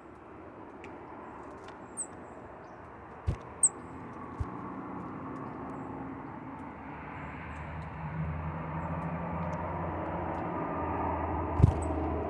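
An engine hum growing steadily louder, as of an approaching vehicle or aircraft, with a few sharp clicks along the way.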